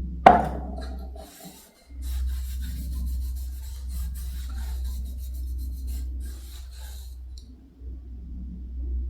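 A sharp knock just after the start, then a cloth rubbing over wood for about five seconds as restoring finish is worked into a stained wooden sample piece.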